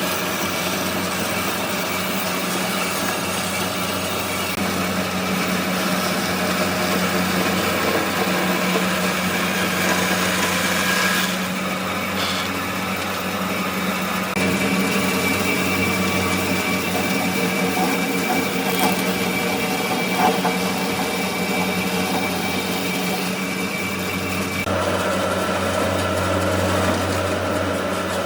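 A power tool running steadily on wood, its tone shifting a few times as the work goes on.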